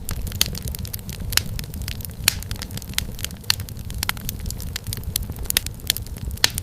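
Wood fire crackling: irregular sharp pops and snaps, several a second, over a steady low rumble of flames.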